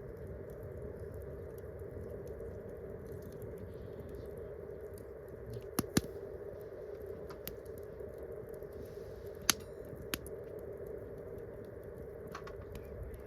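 Wood campfire crackling: scattered sharp pops and ticks, a few louder snaps about six seconds in and again near ten seconds, over a steady background hiss.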